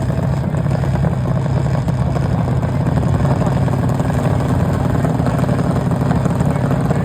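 An engine idling steadily and loudly, its pitch unchanging with no revving.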